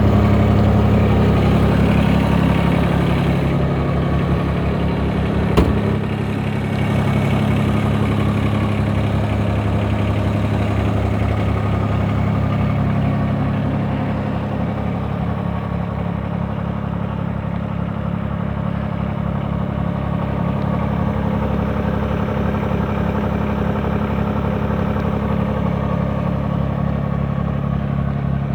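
Mahindra eMAX 20 HST tractor's three-cylinder Yanmar diesel running steadily at about 1,200 rpm, with a single sharp click about five and a half seconds in.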